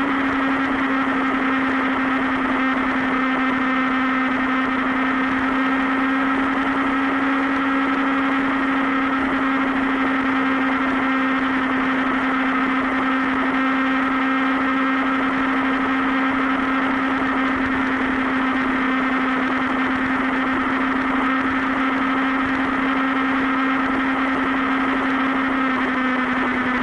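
Superbike engine running at a steady cruising speed, its note holding steady and dropping slightly lower near the end.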